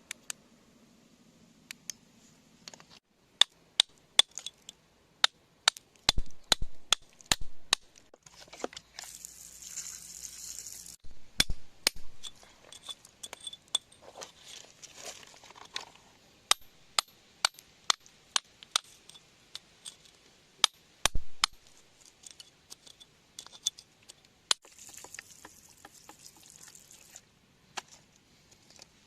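Irregular sharp, glassy clinks and taps of hard objects knocking together, dozens over the stretch, with a few heavier knocks among them and two short spells of hissing noise.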